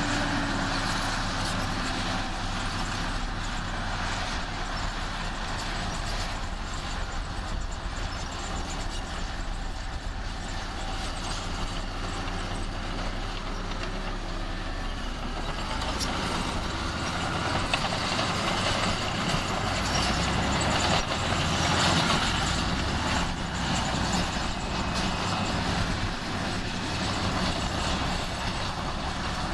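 Heavy earthmoving machine's diesel engine running steadily under load, getting louder for a few seconds about two-thirds of the way through, with a few sharp knocks.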